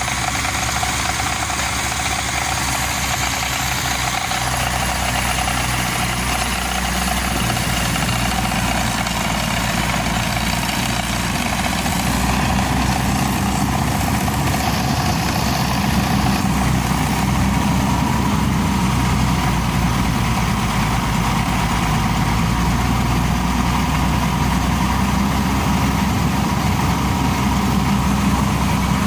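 Air compressor running steadily with a low, even engine drone, a little louder from about twelve seconds in.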